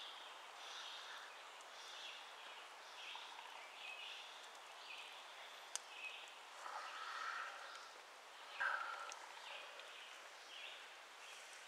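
Faint birdsong: short high chirps repeating about once a second, with a brief louder noise about seven seconds in and again about nine seconds in.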